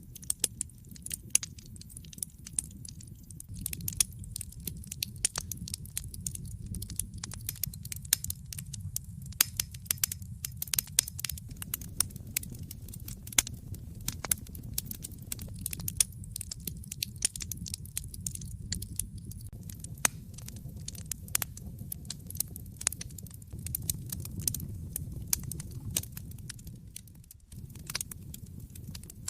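Wood fire in a fireplace crackling: irregular sharp pops and snaps over a low, steady rumble of burning.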